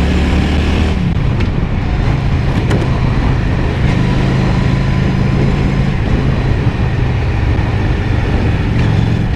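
Honda Shadow 750 V-twin motorcycle engine running under throttle on the road, heard through a helmet-mounted mic with wind noise. The engine pitch drops about a second in, then holds steady.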